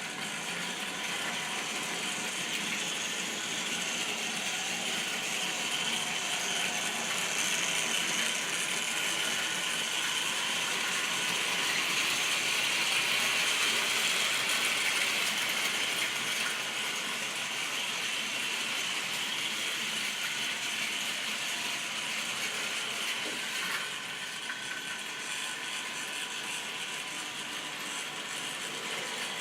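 Model railway train running along the track with a steady mechanical rattle of wheels and mechanism. It grows louder toward the middle, then eases off.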